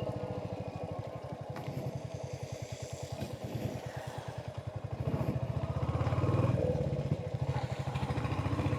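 Royal Enfield Hunter 350's single-cylinder engine running under way, its exhaust beat steady and low; it drops quieter for a few seconds, then comes up louder again about five seconds in.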